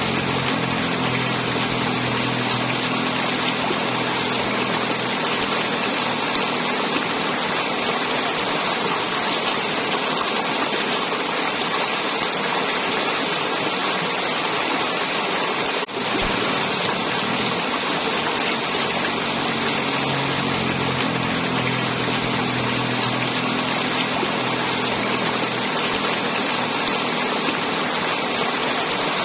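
River water flowing and gurgling in a steady rush, with a brief break and click about sixteen seconds in.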